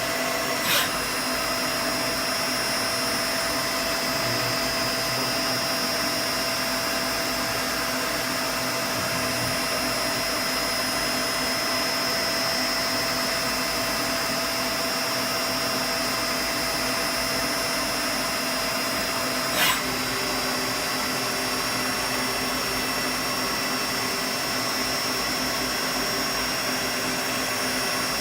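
Brother TC-R2A CNC drill and tapping center with its BT-30 spindle running, announced at 3,400 RPM: a steady machine whir with a high whine. There is a short click about a second in and another about twenty seconds in, where one of the tones drops out and a lower one takes its place.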